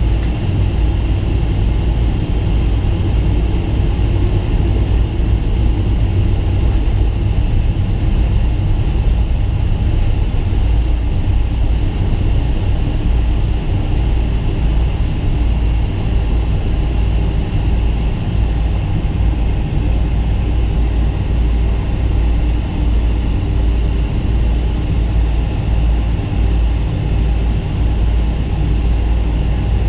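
Cabin noise inside a Boeing 777-200 on the ground with its engines at idle: a steady, loud, low rumble with a faint hiss above it, unchanging throughout.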